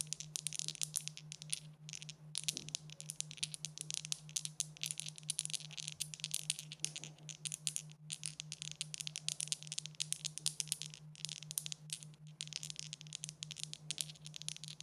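Dice rattling and clattering: a dense, continuous run of small hard clicks with a few brief gaps, over a steady low hum.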